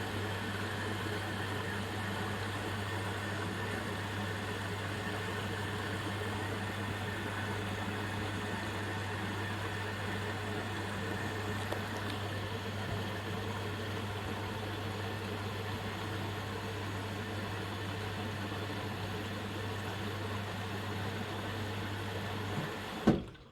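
Indesit washing machine running steadily on its colours cycle with a constant low hum, ending abruptly with a thump near the end.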